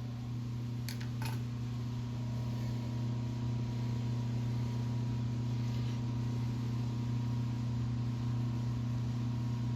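Metal lathe running with a steady low hum, with two light clicks about a second in.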